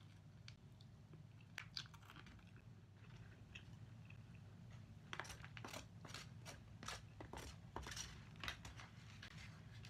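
A person chewing crunchy fried chicken (Jollibee Chickenjoy) and its bone close to the microphone: faint scattered crunches at first, then a run of sharp crackly crunches for about four seconds from midway.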